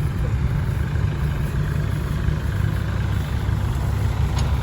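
Diesel dump truck engine running steadily with a low rumble.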